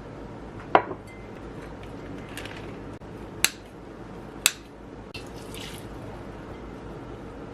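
Kitchen work: three sharp knocks or clinks of utensils against dishes, about a second in, at three and a half seconds and at four and a half seconds, with a few fainter rustles and water-like sounds between.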